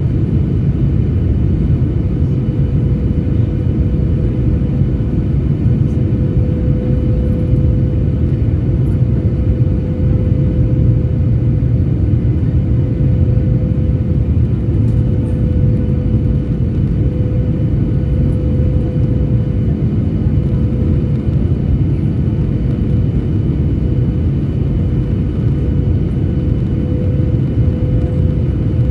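Jet airliner cabin noise: a steady low engine drone and airflow rumble with a constant hum, unchanging throughout.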